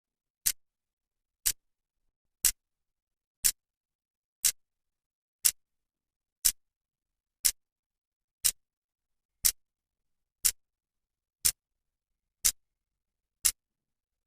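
A clock's second hand ticking once a second: single sharp clicks at an even pace, with silence between them.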